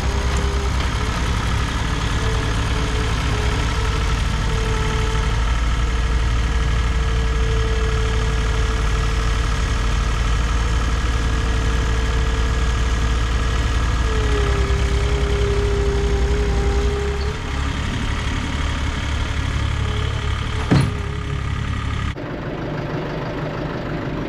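Tractor engine running steadily, with a thin steady whine over it for much of the time. There is one sharp knock about three-quarters of the way through, and the sound changes character shortly after.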